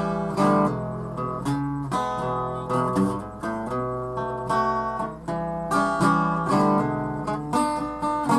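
Acoustic guitar playing the introduction to a song, regularly strummed chords that ring on between strokes, with no singing yet.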